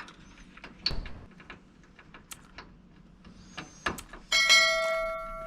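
Light handling clicks and taps, then about four seconds in a metal object is struck and rings like a bell, with several clear tones fading away over a second or so.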